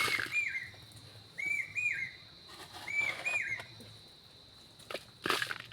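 A bird calling over and over, a pair of short whistled notes that rise and fall, repeated about every second and a half. A few dull knocks come near the start and again about five seconds in.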